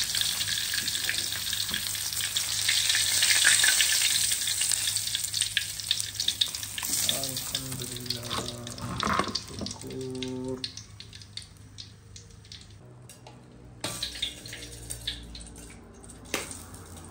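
Shrimp frying in hot oil: a dense, crackling sizzle, loud for the first several seconds, dying down after about ten seconds to scattered pops and clicks.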